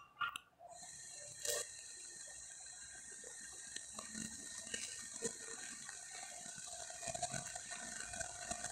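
A person chewing a bite of bread with fried egg close to the microphone: soft, faint clicks and mouth sounds over a steady hiss that sets in about half a second in.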